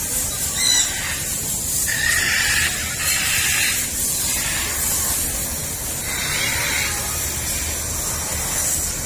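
Birds calling over a steady high hiss: a short chirp about a second in, then several harsh, scratchy squawks.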